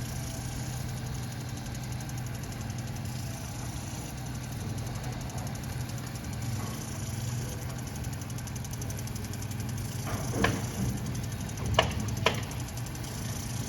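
Steady low motor hum with a fast, even ticking over it. Near the end come three short, sharp clicks.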